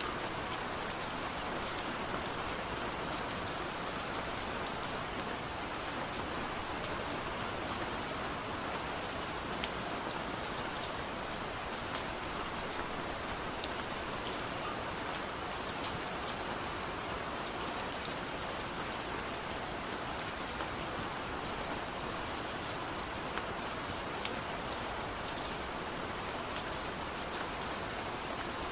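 Steady rain falling, a constant hiss with the sharp clicks of single drops hitting a surface scattered throughout.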